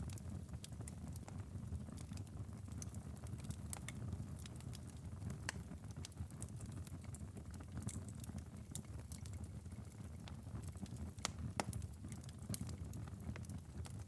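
Wood fire in a fireplace crackling, with irregular sharp snaps and pops over a low steady rumble of the flames; one louder pop comes about eleven seconds in.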